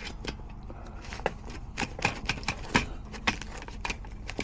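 Scattered sharp clicks and light taps of hand tools and small metal parts being handled while fitting a replacement zone damper motor, over a low steady hum.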